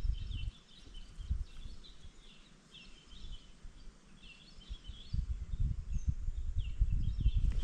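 Small birds chirping over and over in short, falling notes, over a low rumbling noise that grows louder from about five seconds in.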